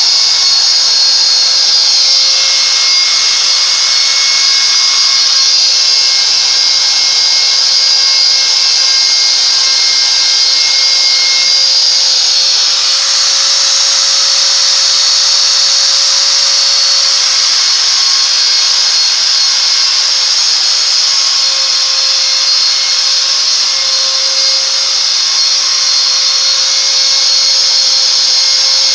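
A CNC router's 530 W spindle motor running steadily at speed: a loud, continuous high-pitched whine. Its tone shifts slightly partway through.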